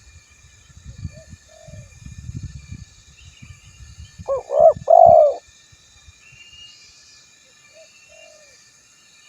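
Male spotted dove (tekukur) cooing: a loud phrase of two short coos and a longer drawn-out one about halfway through, with fainter coos early on and near the end.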